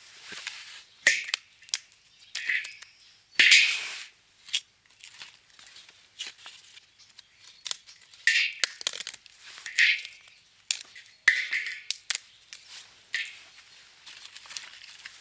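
Firewood being split and pulled apart: irregular sharp cracks and splintering, tearing sounds of wood fibres, with a few louder cracks among them.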